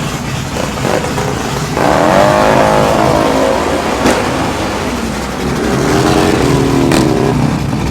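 Car engines at a drag strip: a steady engine rumble with two revs, each lasting about two seconds, and two sharp snaps about four and seven seconds in.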